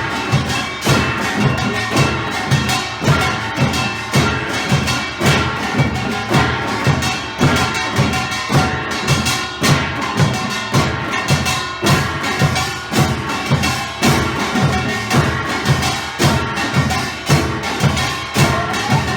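Samul nori percussion ensemble playing: kkwaenggwari small gong, jing large gong, janggu hourglass drum and buk barrel drum. The drums and ringing gongs keep up a fast, steady driving rhythm.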